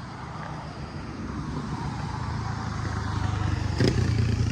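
A motor vehicle's engine running steadily, growing gradually louder toward the end.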